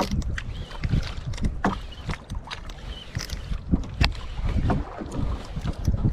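Small fishing boat in rough sea and strong wind: a steady low rumble of wind and water, broken by frequent irregular knocks and thuds.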